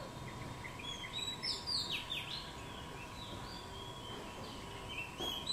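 A small songbird singing: a phrase of quick chirps and descending whistled notes starting about a second in and lasting about two seconds, with the next phrase beginning near the end.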